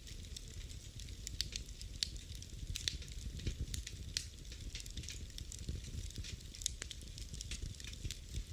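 Fire in a fireplace crackling: frequent irregular sharp snaps and pops over a low, steady rush of the flames.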